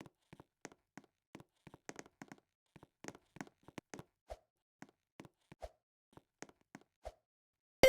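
Light, irregular tapping and clicking, two to four small taps a second, a few of them with a duller thud. Right at the end a loud sudden sound with ringing tones cuts in.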